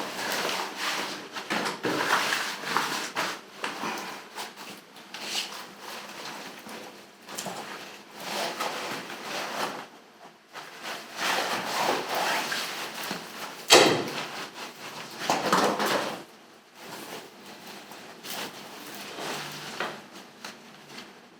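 Irregular rustling and scraping of handling, with scattered knocks and one sharp knock about two-thirds of the way through.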